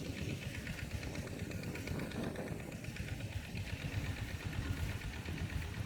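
A small engine running steadily at low revs, a low pulsing rumble with a light rattle.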